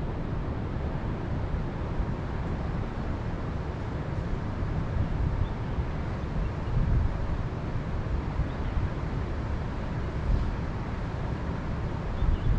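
Wind gusting on the microphone, a low rumbling noise that swells and eases, with a couple of faint high bird chirps.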